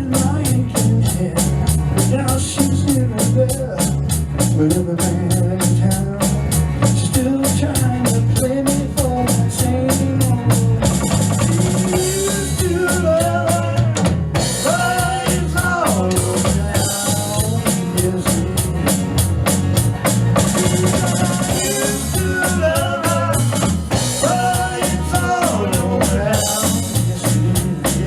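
Acoustic trio playing a groove: a drum kit keeps a steady beat over a low bass line, and a bending melodic lead line comes in about twelve seconds in.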